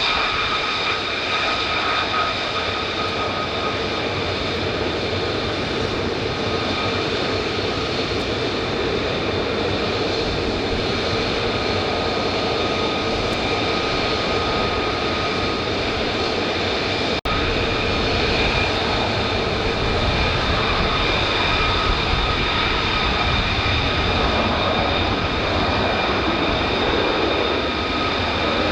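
Jet fighter's turbofan engine running steadily, a rushing roar with a steady high-pitched whine over it and no rise or fall in pitch. The sound drops out for an instant about 17 seconds in.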